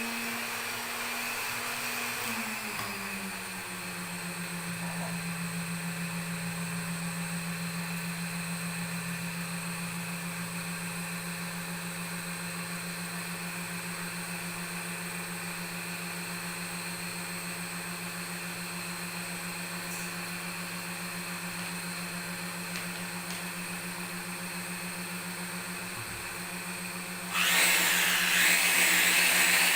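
Small electric sewing machine motor running with a steady hum; its pitch drops slightly a couple of seconds in and then holds. Near the end a louder, hissier motor whine cuts in suddenly.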